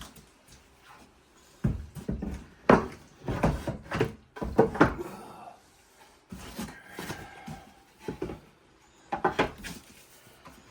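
Wooden beehive parts being handled and set down, knocking and clattering against each other in irregular clusters.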